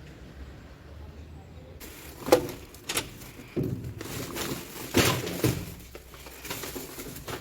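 A few sharp knocks and clatters, the first about two seconds in, after a quiet low hum.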